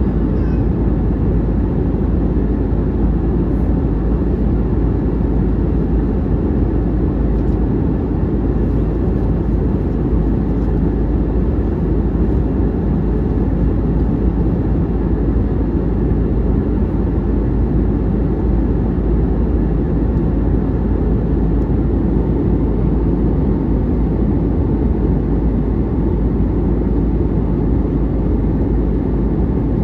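Steady roar of a jet airliner's engines and rushing air, heard from inside the passenger cabin in flight.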